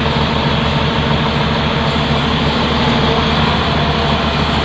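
Heavy diesel engine idling steadily with a low, even throb.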